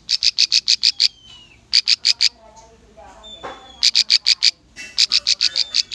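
Bar-winged prinia (ciblek) singing in rapid bursts of sharp, high chipping notes, about eight a second, repeated four times with short gaps. Fainter falling whistles sound between the bursts.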